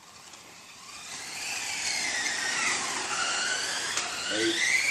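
1/10-scale F1-style RC race cars' motors whining as they lap, several whines gliding up and down in pitch and crossing as the cars speed up and slow down. The whine grows louder after the first second, and there is one sharp tick about four seconds in.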